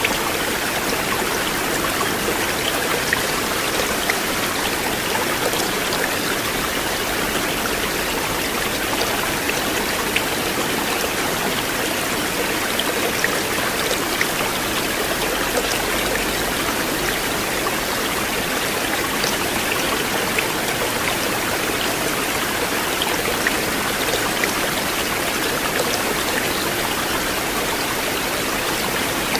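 River water flowing in a steady, unbroken rush, with small scattered splashes.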